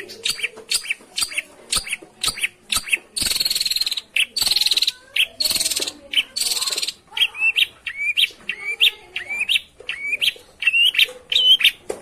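Long-tailed shrike (pentet) calling: quick sharp chips, then four harsh rasping chatters around the middle, then a run of repeated upslurred whistled notes at about two a second. This is the kind of shrike recording played as a lure to get a silent caged bird to answer.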